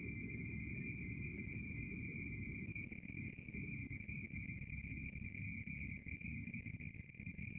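Crickets trilling steadily at night, one continuous high-pitched trill that does not let up, over a low rumbling noise.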